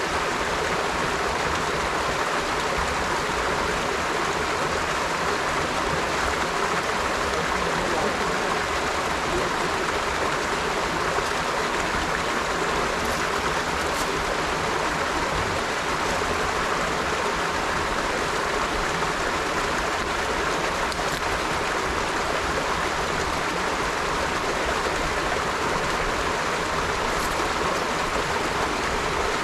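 River water flowing steadily, an even rushing and babbling with no change in level.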